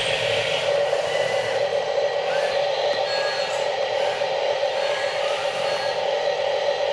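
Electric motor and gearbox of a remote-control toy construction vehicle whining steadily, with a lower rumble fading out in the first second.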